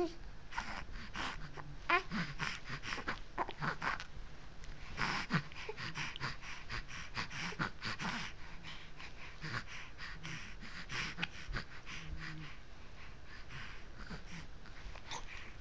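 A baby making breathy noises and snorts, with a short squeak about two seconds in and many small clicks scattered throughout.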